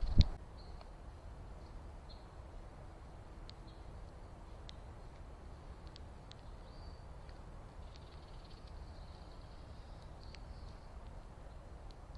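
Small birds giving short, high chirps here and there over a low, steady outdoor rumble. A single loud thump comes just after the start.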